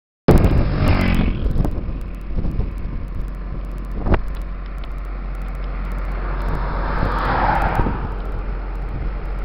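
Motorcycle engine running, its pitch falling just after a brief dropout at the start, with a swell of engine noise about seven seconds in and wind noise on the microphone.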